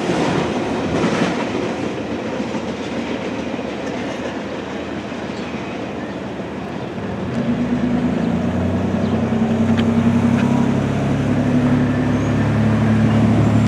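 Intermodal container cars of a freight train rolling past with wheel noise. About halfway through, a steady low hum joins in and the sound grows louder.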